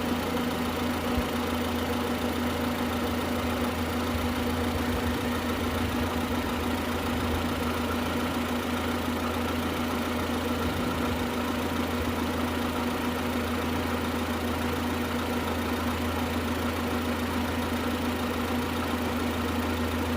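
A 2003 Honda Civic's four-cylinder engine idling steadily, kept running so the coolant circulates and trapped air bubbles out of the cooling system.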